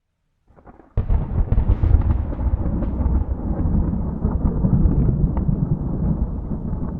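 Thunder: after a moment of silence, a sudden crack about a second in breaks into a long, deep rolling rumble with crackles through it.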